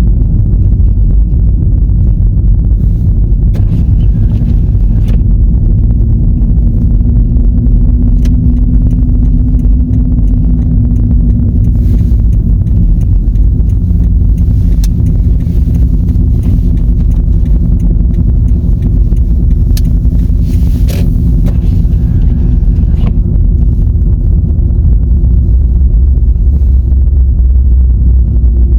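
Car driving on snow-covered roads: a loud, steady low rumble of engine and tyres with a few scattered sharp clicks.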